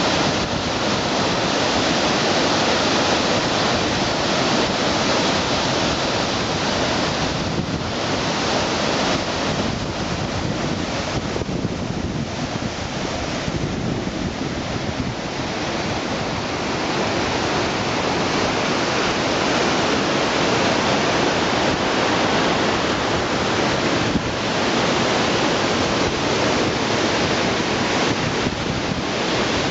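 Waterfall pouring: a steady, loud rush of falling water that hardly changes.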